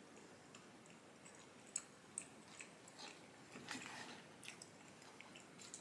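Faint chewing of Samyang carbonara topokki rice cakes, with a few soft scattered clicks and smacks.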